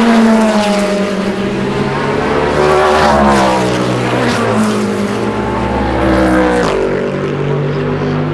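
Several race cars passing one after another at speed, each engine note falling in pitch as it goes by. The loudest pass comes about three seconds in, and another car's note drops sharply near the end.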